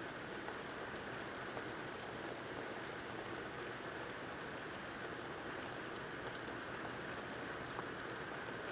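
Steady rain falling during a thunderstorm, an even hiss with a few faint scattered drop ticks.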